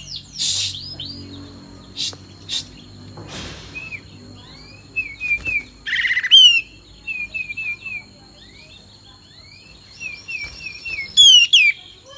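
Olive-winged bulbul (kapas tembak) singing: runs of short slurred chirps, broken about half a second, six and eleven seconds in by loud, fast rising trills. This is a bird in full song of the kind kept to provoke caged birds into singing.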